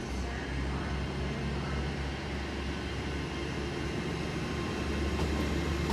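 Great Western Railway Class 802 bi-mode IET units running on their underfloor diesel engines, a steady low hum and rumble that grows slowly louder.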